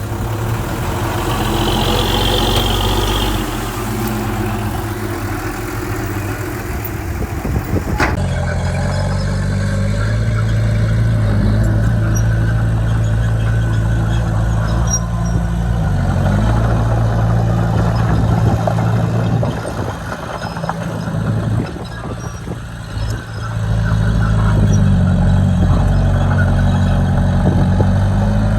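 Heavy diesel engine of earth-moving equipment running, a steady low drone whose pitch dips and recovers briefly a couple of times. About eight seconds in, the sound changes abruptly.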